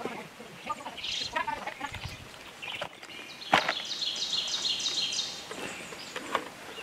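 Small bird calling, with scattered chirps and then a quick run of repeated high notes in the middle, and a single sharp knock just before it.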